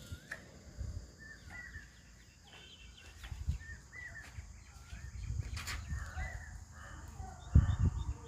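A bird calling over and over, a short rising-and-falling whistled call about once a second, over low knocks and handling noise; a heavy thump near the end is the loudest sound.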